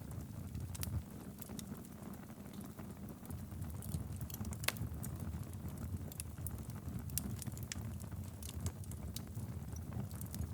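Wood fire burning steadily in a fireplace: a low rumble of flames with scattered sharp crackles and pops, one louder pop about halfway through.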